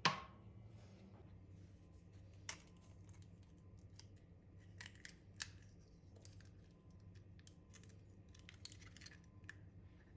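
A sharp knock right at the start, then scattered light clicks and snips of small objects being handled.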